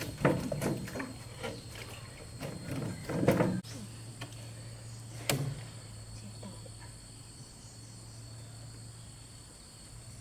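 A quick run of knocks and clattering handling sounds that cuts off sharply, then a low steady hum with a single sharp knock and a faint steady high whine.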